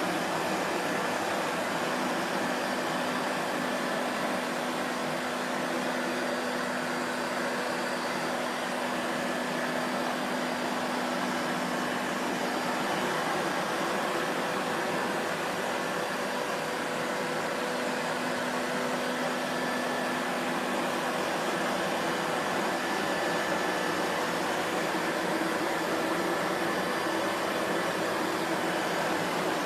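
Vacuum cleaner motor running steadily, an even whooshing hum with a faint steady whine and no changes in pitch or level.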